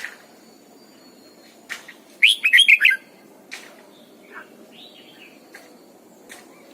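Red-whiskered bulbul singing a short burst of quick warbled notes about two seconds in, with scattered single chirps and clicks before and after.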